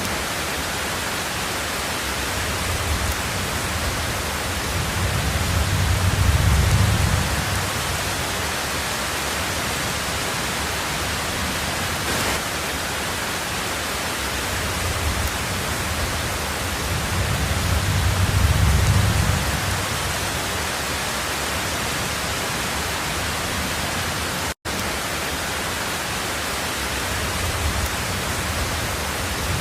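Heavy rain on a tin roof, a steady hiss, with low rumbles of thunder swelling and fading twice. The sound cuts out for a split second near the end.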